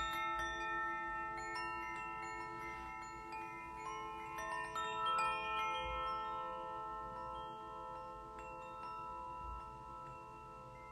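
Tuned metal percussion ringing: a steel tongue drum (glucophone), chimes and a singing bowl. Several notes are struck near the start and again about halfway, over a steady wavering low tone, and they ring on and slowly fade toward the end.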